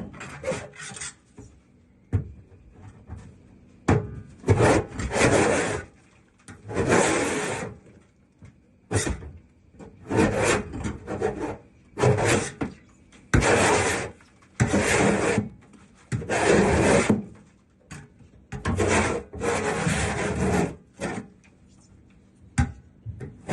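A tool scraping grease off the metal of a kitchen exhaust hood in a long series of strokes, each about a second long, with short pauses between them.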